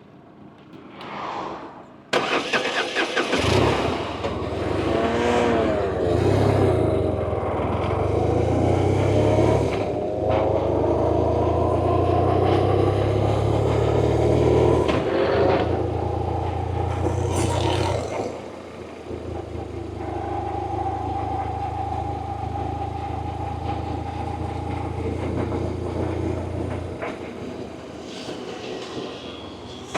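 BMW R1100RT's air/oil-cooled boxer-twin engine on the move. It comes in suddenly and loudly about two seconds in, its pitch rising as it accelerates, then settles into steady running with a dip in level partway through, and eases off near the end.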